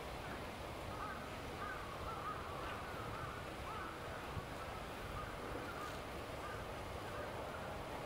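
A bird calling in a quick run of short, up-and-down notes, starting about a second in and trailing off near the end, over steady outdoor background noise.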